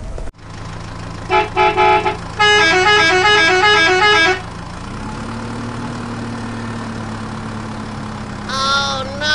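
A toy dump truck's electronic horn sounds: four short beeps, then a fast two-tone electronic melody for about two seconds, over a steady low hum. Near the end, two short warbling electronic tones.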